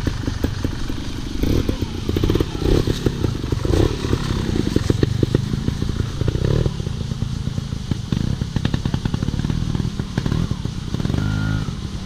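Off-road motorcycle engine running and being blipped, with clattering knocks around the first few seconds.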